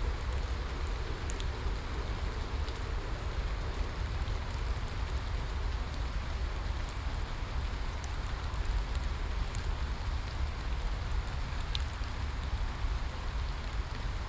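Steady rainfall with a low rumble underneath and scattered sharp drop ticks on top.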